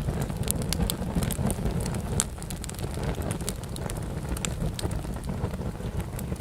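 Wood fire burning in a fireplace: a steady low rumble of flame under frequent sharp, irregular pops and snaps of the burning logs.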